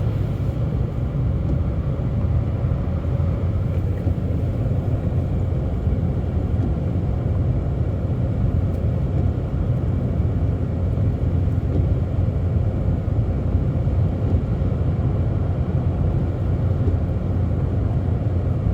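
Steady road noise inside a car's cabin at highway speed: a constant low rumble of tyres and engine.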